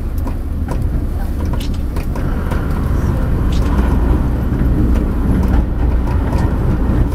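Pingxi Line diesel railcar running along the track, heard from inside the front car: a steady low rumble of engine and wheels on rails. It grows louder from about two seconds in as the train enters a tunnel.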